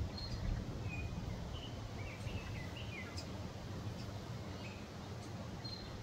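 Small forest songbird giving short, scattered high chirps, a few of them falling in pitch, over a steady low rumble.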